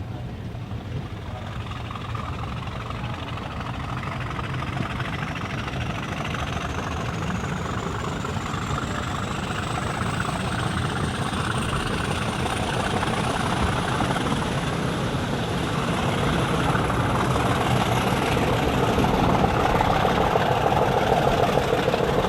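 Class 50 diesel locomotive's English Electric V16 engine running and building up, growing steadily louder, with a thin high turbocharger whine that climbs slowly in pitch throughout.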